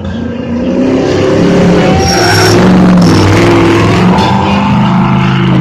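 Monster truck engine revving hard, its pitch rising and falling, getting louder about a second in.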